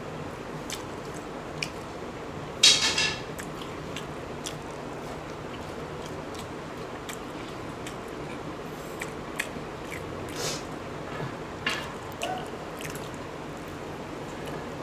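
Boiled eggs being bitten and chewed, with scattered small clicks and one louder brief crackle about three seconds in, over a steady background hiss.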